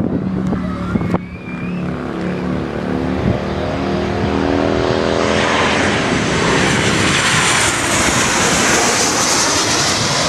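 Jet airliner flying low overhead: the engines' whine glides down in pitch, then a broad jet roar builds and stays loud through the rest.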